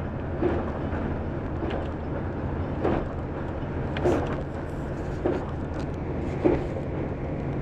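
Bombardier Itino (Y31) diesel railcar running along the track, heard from inside the driver's cab: a steady low diesel drone with a regular knock a little more than once a second as the wheels run over the rail joints.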